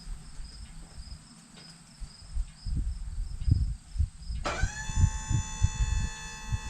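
Crickets chirping steadily, with uneven low thumps. About four seconds in, a steady high whine with many overtones starts suddenly, sliding up briefly before it holds.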